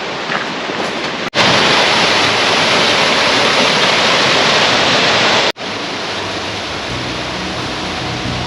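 Seasonal waterfall pouring into a pool: a steady rush of water. It is heard in three edited stretches, with a brief dropout at each cut, and is loudest between a little past a second in and about five and a half seconds in.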